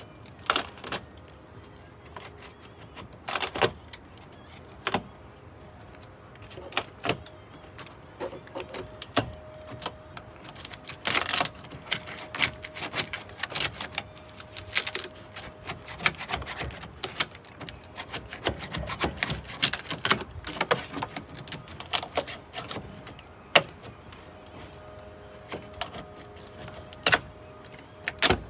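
Irregular clicks, taps and short scrapes of hand work on the camper's plywood, the wood being prodded to test it for dry rot; it turns out sound, not rotted.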